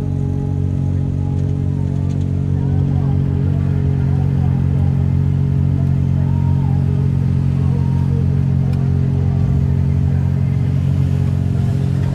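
Side-by-side UTV engine running at a steady pitch, its tone even throughout.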